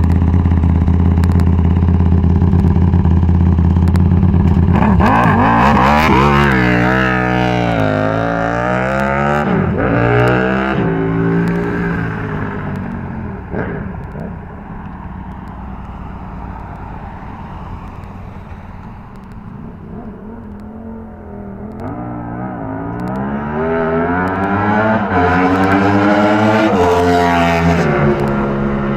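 Aprilia SXV 450 V-twin motorcycle engine breathing through a custom 2-1 stainless exhaust. It holds a steady note, then revs up and down through the gears about five seconds in as the bike pulls away. The sound fades to a distance, then grows loud again with rising and falling revs as the bike comes back past near the end.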